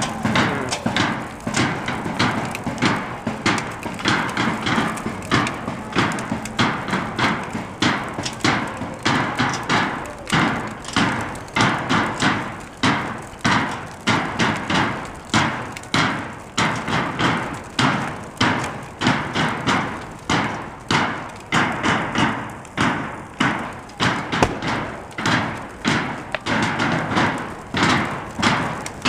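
Steady rhythmic banging: heavy knocks about one and a half a second, each with a short echo, over a continuous background of noise.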